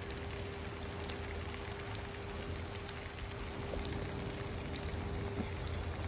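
Sliced onion and halved jalapeño and sweet peppers sizzling in hot oil in a frying pan: a steady hiss with faint scattered pops.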